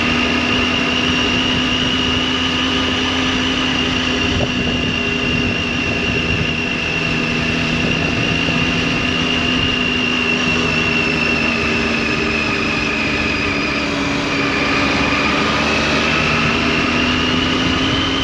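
Triumph Tiger 800's three-cylinder engine and exhaust running at a steady cruise. The pitch sags slightly about two-thirds of the way through, then climbs again near the end as the revs pick up.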